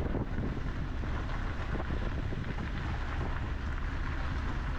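Truck driving on the highway: a steady low rumble of road, engine and wind noise.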